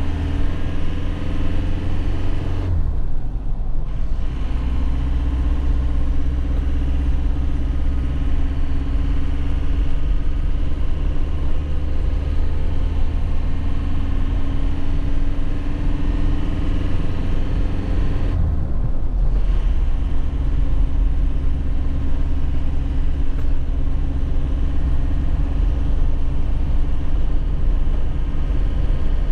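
2001 Nissan Cabstar light truck's diesel engine pulling under load with a low road rumble; its note rises steadily. Twice, about three seconds in and again near nineteen seconds, the engine sound drops away for about a second, as for a manual gear change.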